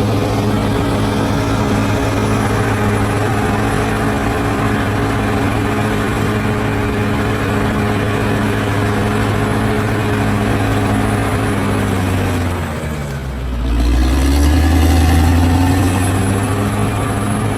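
Large bulldozer's diesel engine running steadily at working speed. About twelve seconds in its note sags and drops away briefly, then comes back louder and deeper with its pitch climbing.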